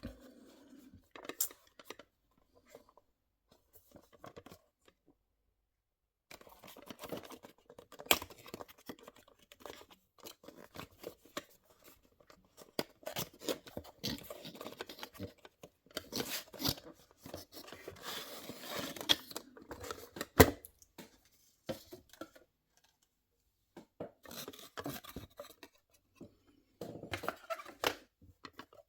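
A diecast model car's packaging being handled and opened by hand: irregular scraping, tearing and rustling, broken by sharp clicks, in stretches separated by pauses.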